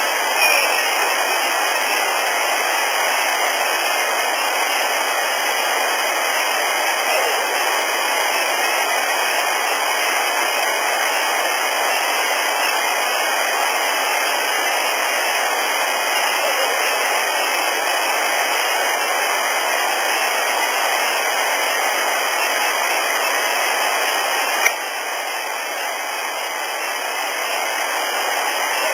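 Steady hiss of a heavily amplified field recording, with a few faint, brief sounds buried in it. A sharp click comes about 25 seconds in, after which the hiss is a little quieter.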